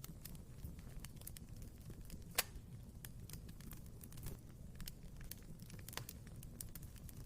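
Wood fire crackling in a fireplace: irregular small snaps and pops over a low, steady rumble of flame, with one louder pop about two and a half seconds in.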